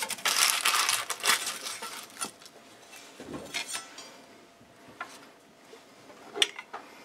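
A large kitchen knife cutting and scraping through a baked pie crust on a wooden platter, then scattered light clinks and knocks of the knife and fork against the plates, the sharpest near the end.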